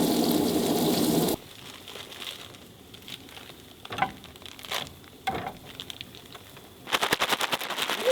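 Asparagus and garlic sizzling in a hot pan of olive oil, cutting off suddenly about a second in. After a quieter stretch with a few light clicks, rapid crackling pops start near the end.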